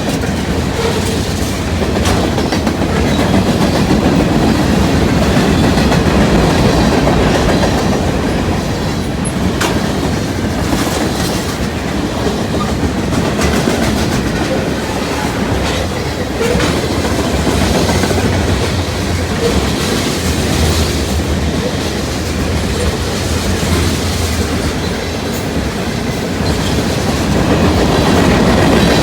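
Cars of a manifest freight train rolling past at steady speed: a continuous rumble with wheels clicking over rail joints.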